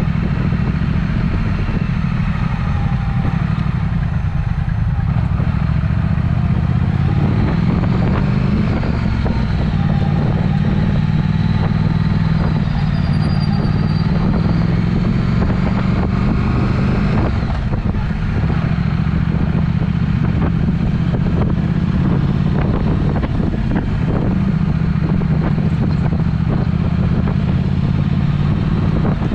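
Triumph Speed Twin motorcycle with a Vance & Hines aftermarket exhaust running under way. Its low, steady exhaust note rises and falls slightly in pitch with the throttle.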